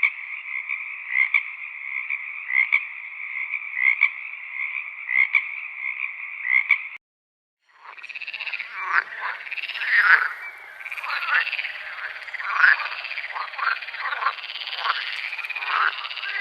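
Frogs calling: first a steady trilling chorus with a louder call about every second and a half. It cuts off briefly near the middle, and a denser chorus of many frogs with overlapping calls follows.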